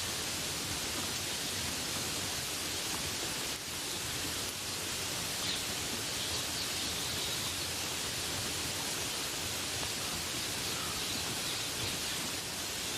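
Steady rain falling as an even hiss, with a few faint bird chirps in the middle.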